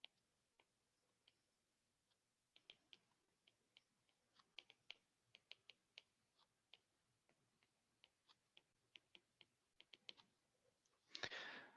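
Faint, irregular clicks and taps of a lecturer writing, a few a second at their busiest, with a short louder rustle near the end.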